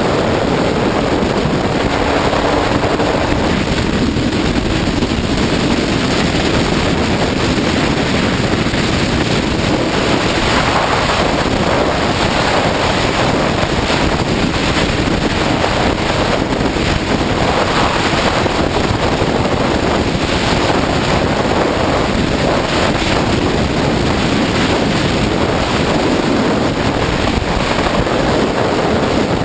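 Heavy wind rush on the microphone of a sportbike ridden at speed, with the engine's note faint beneath it.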